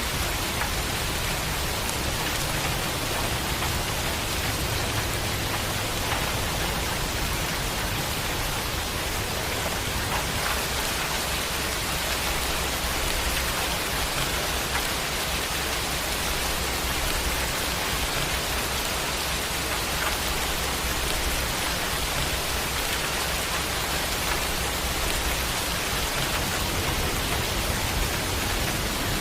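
Steady rain falling, an even hiss, with a low rumble underneath that swells and fades.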